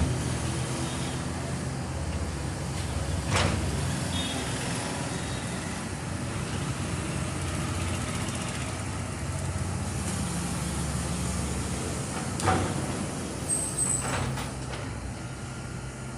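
Heavy machinery engine running steadily with a low drone. A short sharp hiss or clank comes about three seconds in, and a few more near the end.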